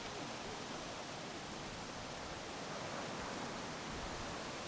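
Steady outdoor ambience on a beachfront walking path: an even hiss with no distinct events.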